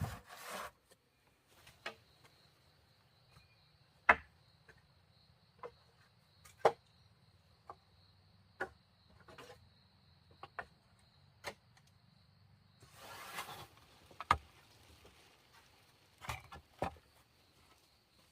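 Scattered sharp knocks and taps of wood being worked by hand, one every second or two, over a steady high-pitched insect buzz that stops about two-thirds of the way through. A brief rustle comes just after the buzz stops.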